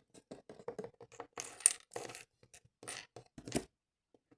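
Small hard plastic toy pieces being handled and set down, a rapid run of light clicks and clatters with two sharper knocks, about one and a half seconds in and near the end, before the clicking stops.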